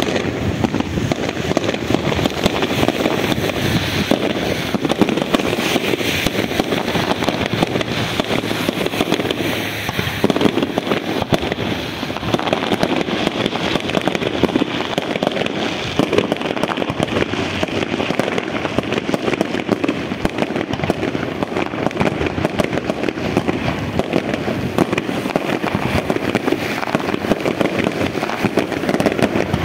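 Fireworks display: a dense, continuous run of rapid, overlapping bangs from aerial shells bursting, with no pauses.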